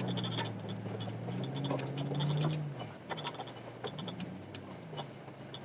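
Vehicle engine heard from inside the cab: its note climbs slightly for about two and a half seconds, then drops off into a lower, wavering note. Scattered sharp clicks and ticks run over it.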